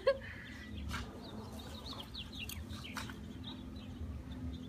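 Small birds chirping in the background: many short, scattered chirps. A brief louder sound right at the start, and a few faint rustles or taps along the way.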